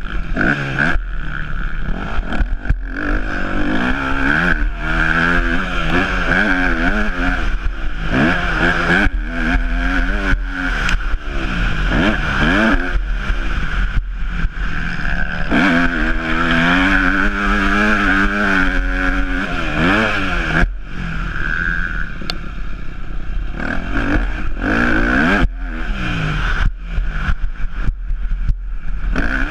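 Yamaha YZ250F motocross bike's four-stroke single-cylinder engine running hard, revving up and dropping back again and again as it rides the track. Sharp clattering knocks run through it, and the engine eases off briefly about two-thirds of the way in.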